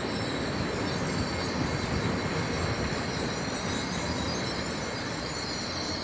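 Intercités train of Corail passenger coaches arriving, rolling past over the station tracks: a steady rumble of wheels on rail with a thin, high, steady wheel squeal.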